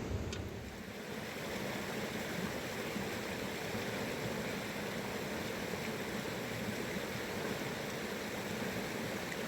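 Fast river water rushing, a steady even roar.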